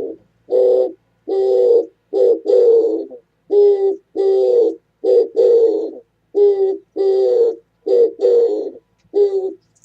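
Oriental turtle dove singing close by: low hooting coos in a repeated short-then-long rhythm, about a dozen notes, stopping shortly before the end.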